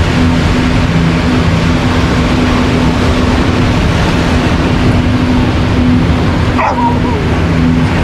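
Steady rush of ocean surf under a low, steady hum, with a dog giving one short bark near the end.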